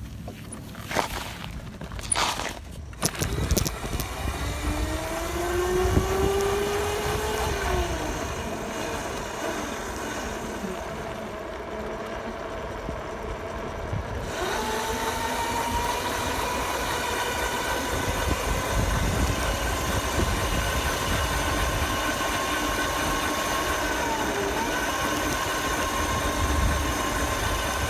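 Small dirt bike engine pulling away, its pitch rising as it speeds up, then holding a steady high note at speed with a couple of brief dips near the end. A few sharp knocks come in the first seconds.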